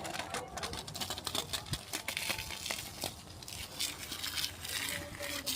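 Crinkling and rustling with scattered small clicks, from hands washing a dirt bike with shampoo.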